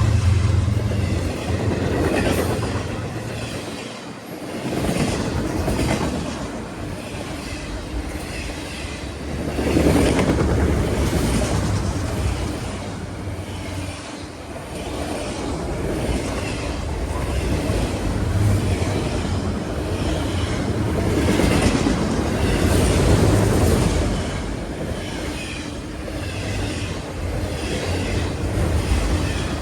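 Railcars rolling past close by, their wheels clicking rhythmically over rail joints, with a continuous rumble that swells and fades and some wheel squeal.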